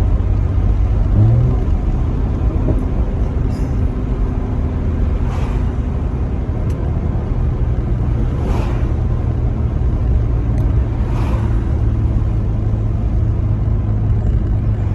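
Mercedes-AMG C43's twin-turbo V6 through its factory performance exhaust, running steadily with a low, even drone.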